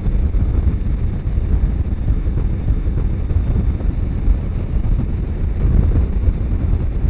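Steady wind buffeting on the microphone over the rumble of a motorcycle riding at highway speed.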